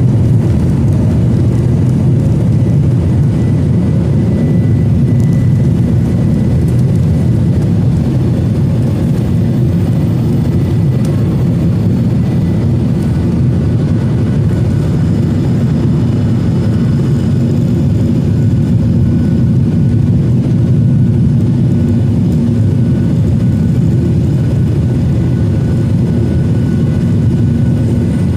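Steady rumble of a Boeing 737-900ER's CFM56-7B jet engines and airflow heard inside the cabin, with faint thin whining tones above it.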